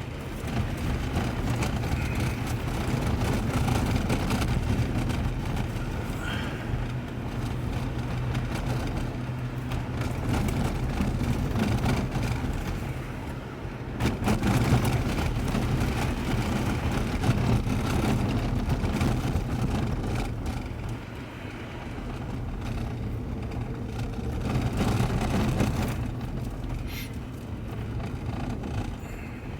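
Car driving at road speed, heard from inside the cabin: a steady low engine drone under the rush of tyre and road noise, rising and falling gently.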